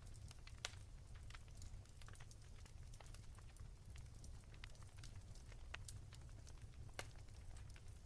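Wood fire crackling softly in a fireplace: irregular sharp pops and snaps of burning firewood over a low, steady rumble, with two louder pops about half a second in and about seven seconds in.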